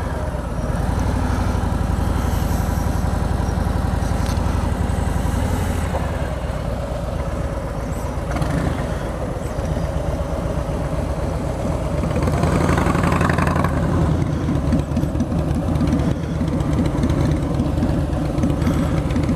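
Harley-Davidson Milwaukee-Eight V-twin engine of a Road Glide Ultra running at low speed while the bike turns around, with the revs rising briefly about two thirds of the way through.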